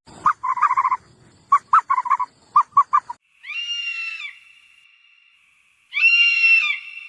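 Animal calls: a quick chattering run of pulses over the first three seconds, then two short pitched calls about two and a half seconds apart.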